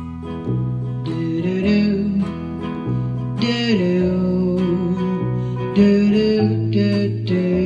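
Acoustic guitars playing an instrumental passage of a pop song: chords underneath a melody line that slides between notes.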